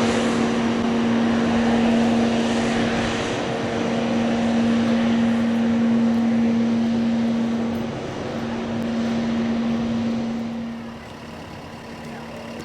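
Airliner engines running with a steady hum over a broad rush that swells and eases. The sound drops off sharply about a second before the end.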